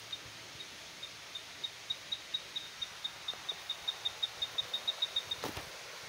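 A bird calling in the bush: a series of short, high piping notes all at one pitch, slow at first, then speeding up and getting louder to about six a second, before stopping abruptly.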